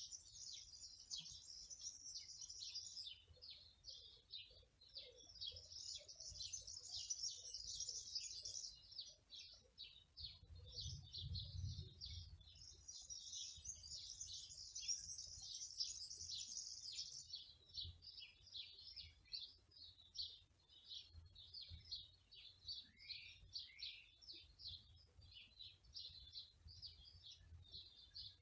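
Songbirds chirping and singing in quick, high notes throughout, with busier, higher trills swelling three times.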